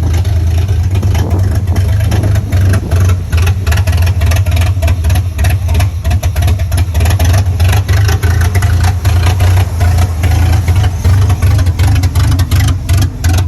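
Truck engine running unevenly with a loping beat, the throttle pumped again and again to keep it going; the owner puts the rough running down to bad fuel injectors.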